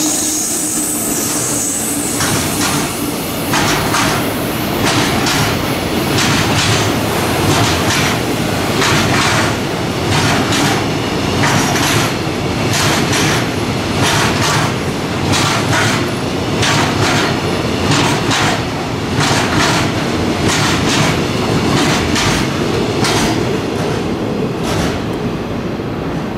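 Freight train of loaded container flatcars hauled by an electric locomotive passing at speed, wheels clacking over the rail joints in a steady run of repeated clacks over a continuous rumble. The last wagons go by near the end and the sound begins to fade.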